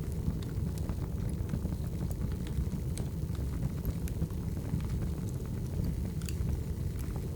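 Burning firewood crackling: a steady low rumble of flames with scattered sharp pops and snaps.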